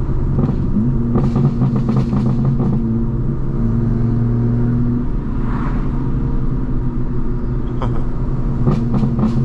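Straight-piped BMW M4 Competition exhaust (twin-turbo straight-six) droning at a steady light cruise, its pitch dropping slightly about five seconds in. Short runs of crackling pops come about a second in and again near the end.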